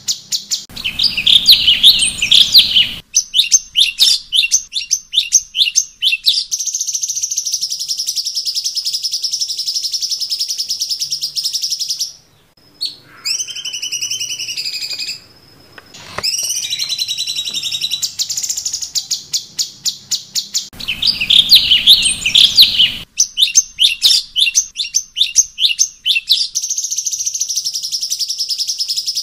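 Cucak cungkok singing: fast runs of sharp, high chattering notes and long rapid trills, broken by two short pauses near the middle. A buzzy chattering phrase at the start comes back about twenty seconds in.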